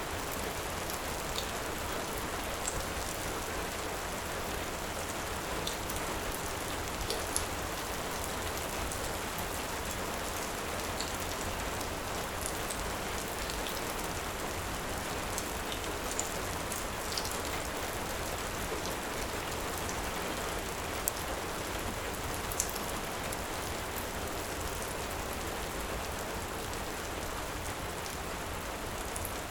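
Heavy rain falling steadily, with scattered sharp pops and crackles from a wood fire.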